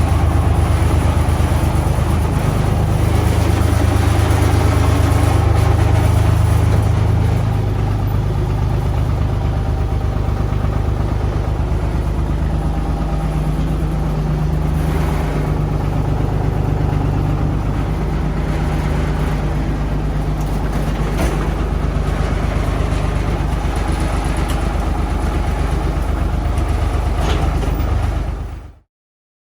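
Tractor engine running, louder for the first few seconds, then its pitch shifting a couple of times as the engine speed changes; the sound cuts off abruptly near the end.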